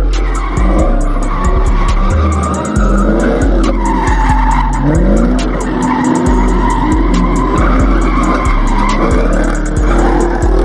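A car doing a burnout, its engine revving up and its tyres squealing, mixed with hip-hop music that has heavy deep bass and a steady beat.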